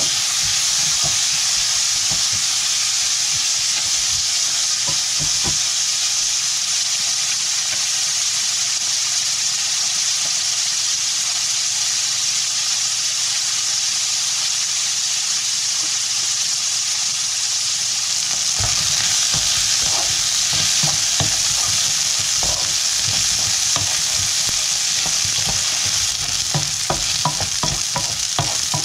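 Stir-frying in a wok: a steady sizzle of hot oil, with the utensil scraping and knocking against the pan, more often in the last third.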